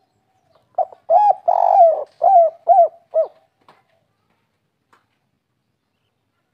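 Spotted dove (derkuku) cooing one song phrase: about six short, arching coos in quick succession over some two and a half seconds, then stopping. This is the three-note-ending 'kuk 3' song type.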